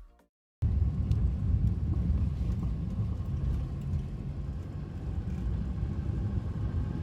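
Perodua Myvi driving, a steady low rumble of road and engine noise that starts abruptly about half a second in, with faint light ticks above it.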